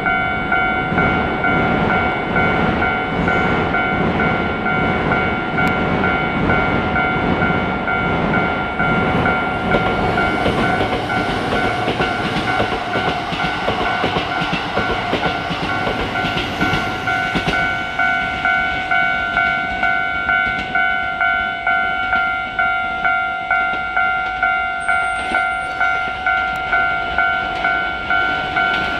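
A train running past with wheel rumble and clatter, under the steady pulsing ring of a Japanese level-crossing alarm bell. The train noise thins about two-thirds of the way through, leaving the bell ringing about twice a second.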